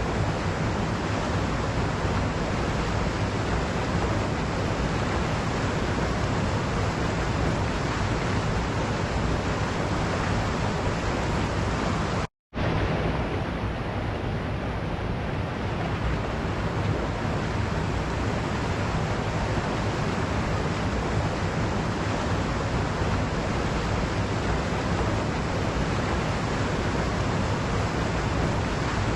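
Waterfall: a steady rush of falling water, broken once about halfway through by a sudden gap of silence lasting a fraction of a second.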